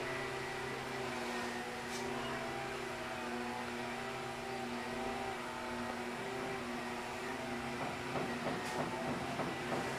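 Canarm CP36 36-inch industrial ceiling fan running on low, its motor humming steadily over an even hiss of moving air. The hum comes from running it on a solid-state speed control.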